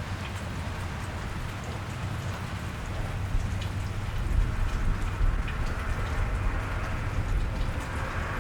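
Steady rain falling and pattering on a wet street, with a low rumble that swells from about three seconds in.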